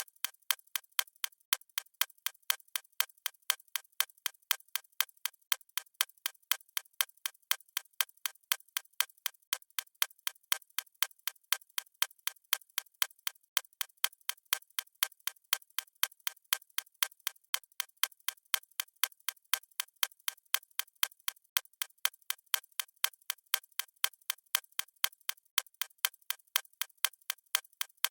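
Clock-style ticking sound effect of a digital countdown timer: sharp, evenly spaced clicks at a steady rate, with no low end.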